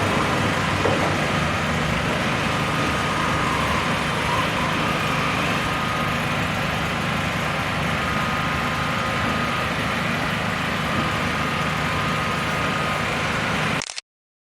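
Steady engine noise with a constant low hum, as of idling heavy vehicles or construction equipment. Near the end the sound cuts off completely for about a second, a pause in the recording.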